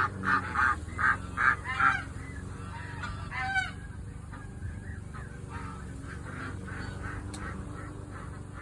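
Geese honking in a quick run of short, loud calls over the first two seconds, then one call with falling notes a little after three seconds, after which it is quieter.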